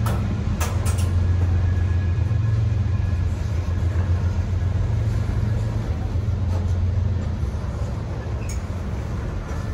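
Freight train rolling by with a steady low rumble. A few sharp clicks come in the first second, and a faint high squeal sounds now and then.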